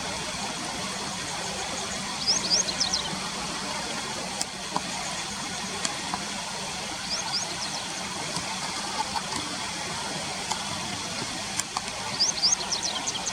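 Japanese wagtail calling in quick runs of short, high chirps, three times about five seconds apart, over a steady rush of river water.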